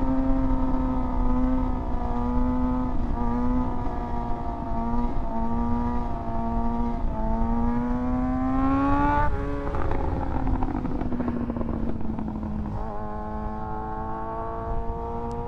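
2024 Kawasaki ZX-6R's inline-four engine, fitted with an SC-Project aftermarket exhaust, running at steady high revs with small throttle changes. It then revs up for about two seconds and shuts off sharply about nine seconds in. The revs fall away under wind noise before the engine settles back to a steady pull.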